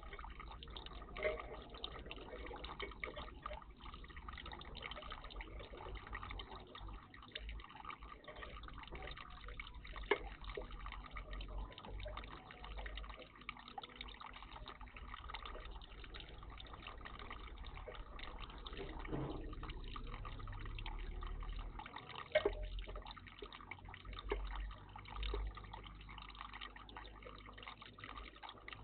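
Water trickling and dripping steadily in a garden bird bath, with a few sharp ticks or splashes about a second, ten seconds and twenty-two seconds in.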